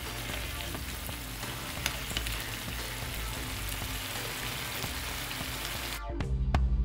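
Food frying in hot oil in a pan: a steady sizzle with scattered small crackles, which stops shortly before the end.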